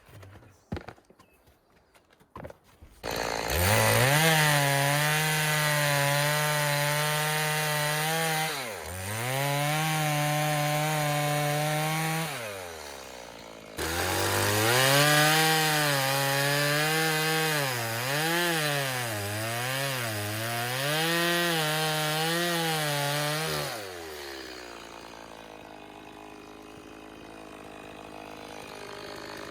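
Chainsaw revving to full throttle about three seconds in and cutting wood, its pitch sagging and wavering under the load. It eases off around twelve seconds in, cuts again, then drops back to a quieter low run for the last few seconds.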